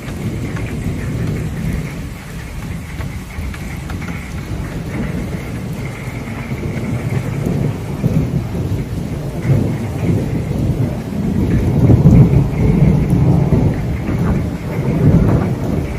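Thunder rumbling over steady rain. The low rumble builds through the second half, is loudest about three-quarters of the way through and swells again near the end.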